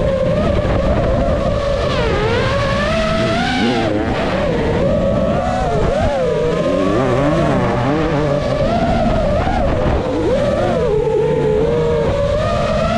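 Beta enduro motorcycle engines revving, several at once, their pitch rising and falling continually with the throttle.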